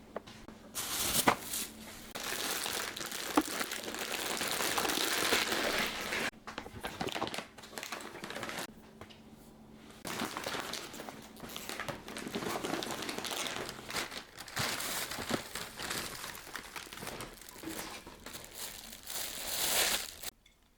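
Plastic packaging crinkling and rustling as it is handled, in bouts with short pauses and a few sharp clicks, stopping abruptly near the end.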